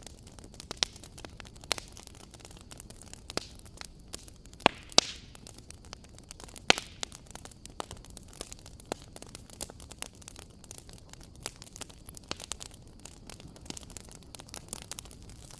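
Fire crackling in a fireplace: irregular sharp pops and snaps over a steady low hiss, with a few louder pops around five and seven seconds in.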